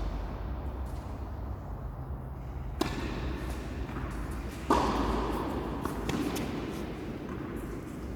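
Tennis ball struck by rackets in a rally: a sharp hit nearly three seconds in and a louder one nearly five seconds in, with a few faint ticks after, over a steady low rumble.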